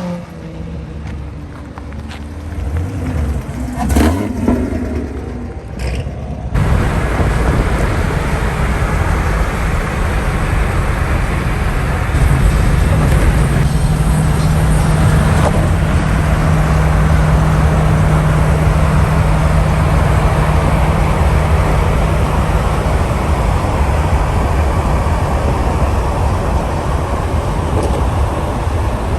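Car engine revving with a sharp crack about four seconds in. About six seconds in it gives way abruptly to a louder steady rush of wind and road noise, with a low engine drone held steady through the middle.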